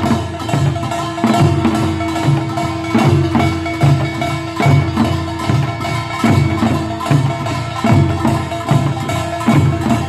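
Korean pungmul percussion playing a steady, driving rhythm of clanging gongs and drums, with a held note running through most of it.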